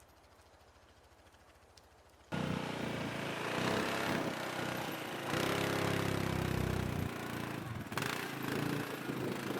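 A small engine running faintly, then about two seconds in a sudden loud engine sound with its pitch rising and falling as it revs.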